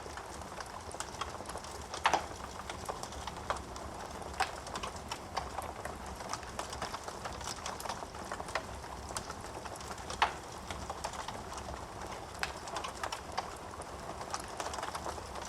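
Wood fire crackling in a fireplace: a steady low hiss of burning with irregular sharp pops and snaps, the two loudest about two seconds in and just past ten seconds.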